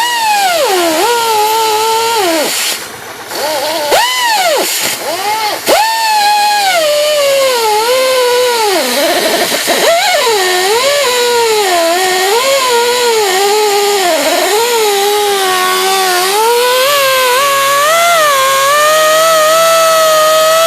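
Handheld electric power tool motor whining, its pitch repeatedly dropping and recovering as it is pressed into the work and eased off, then running steadier near the end.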